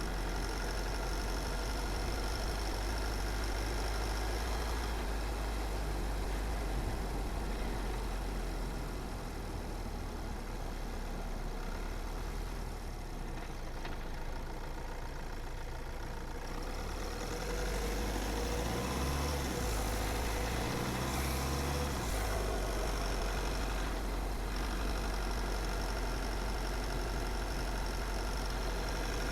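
Car driving along a road: steady engine and tyre noise with a low rumble. A little past the middle, the engine note shifts up and down in pitch for a few seconds.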